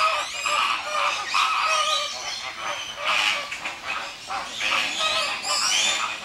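A flock of flamingos calling, many goose-like honks overlapping in a continuous chorus.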